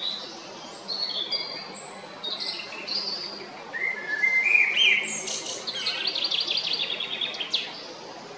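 Male common blackbird singing: a series of short whistled and warbled phrases, then a rapid run of repeated notes lasting about two seconds near the end.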